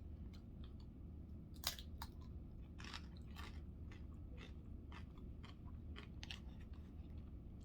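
A person chewing food close to the microphone, with irregular crunchy clicks and one sharper crunch about a second and a half in.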